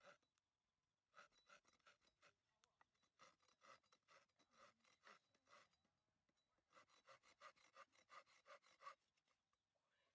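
Handsaw cutting through a piece of wood with quick back-and-forth strokes, in two bouts separated by a short pause.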